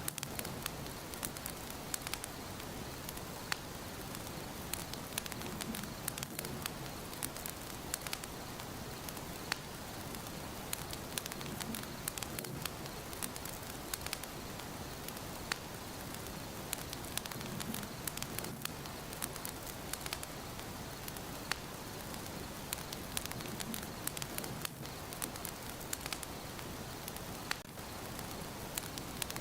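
Wood fire burning in a fireplace, crackling steadily, with many sharp irregular pops and snaps over a soft hiss.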